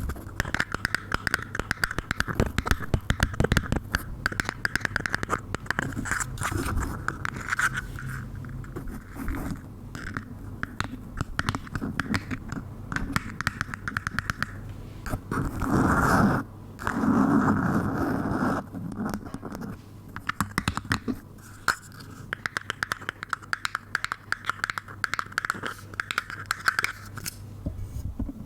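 Close-miked ASMR triggers: rapid scratching and crackling sounds, with two louder rustling bursts a little past the middle.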